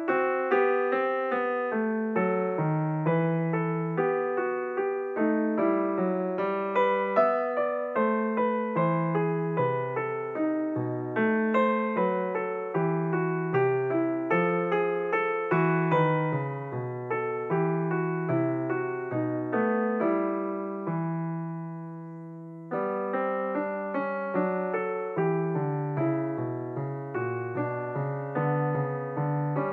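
Background piano music, a steady flow of notes and chords. A little past two-thirds through, a chord is held and fades away before the playing picks up again.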